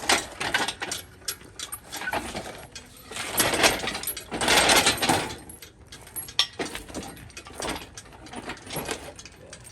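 Hand tools and metal parts clicking and clanking during work on a car's engine bay, with two longer rough, rattling bursts about three and a half and five seconds in.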